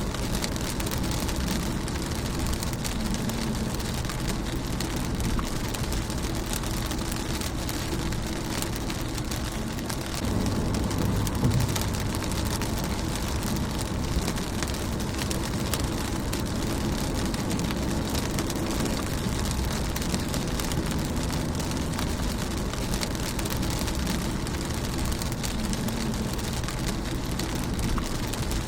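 Rain falling steadily on a car's windscreen and body, an even patter over a continuous low rumble. About eleven seconds in, the low rumble swells briefly.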